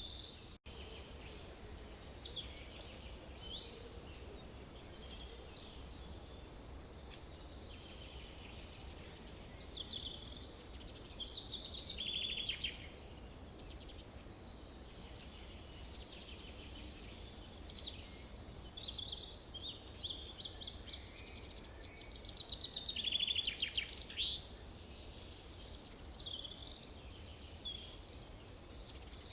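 Forest ambience: many birds chirping and calling, with two louder rapid trilling songs, one about 11 seconds in and one about 22 seconds in, over a steady low rumble. The sound cuts out for an instant just after the start.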